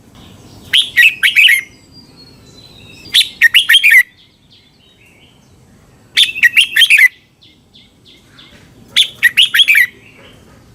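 Red-whiskered bulbul singing: four short, loud, bubbly phrases of quick whistled notes, roughly one every three seconds, with faint softer chirps between them.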